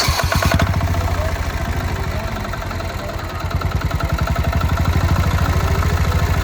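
A 1972 Royal Enfield Bullet's diesel engine idling with a steady, fast, even beat. There is a short noisy burst right at the start, and the engine grows a little louder from about halfway through.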